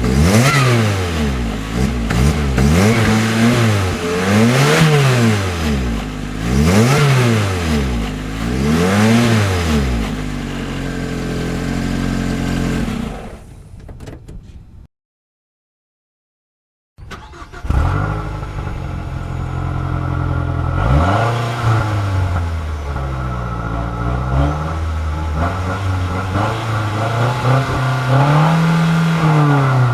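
A Lotus Exige's 1.8-litre four-cylinder engine revved in about five quick blips roughly two seconds apart, settling to idle and then shutting off. After a couple of seconds of silence, a Mazda 6 MPS's 2.3-litre turbocharged four-cylinder starts with a flare of revs, idles, and is blipped a few times.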